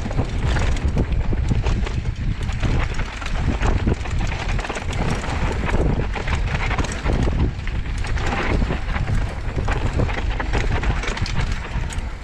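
Mountain bike riding fast down a dirt trail, with steady wind rumble on the microphone and tyre noise mixed with irregular rattles and knocks from the bike over the bumps.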